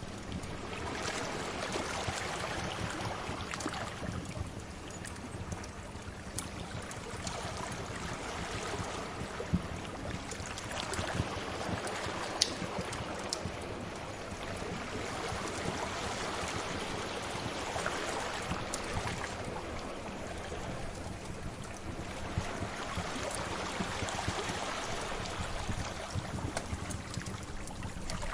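Sea waves washing in and easing off in slow swells every several seconds, with scattered sharp pops of a crackling fire, the loudest two about ten and twelve seconds in.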